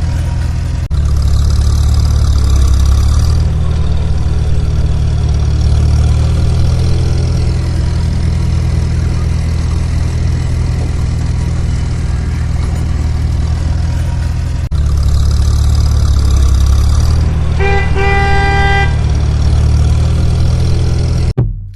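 Heavy truck engine running steadily with horn blasts: a long high horn about a second in and again later, then a quick run of short honks near the end.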